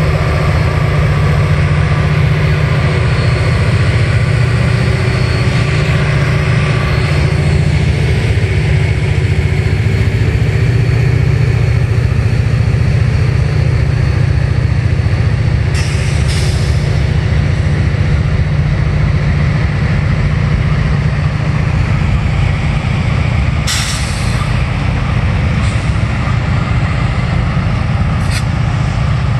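Freight train with five diesel locomotives pulling away from a stop and rolling past, a loud steady deep engine drone under the rumble of the cars. Brief hissing bursts about halfway through and again a few times near the end.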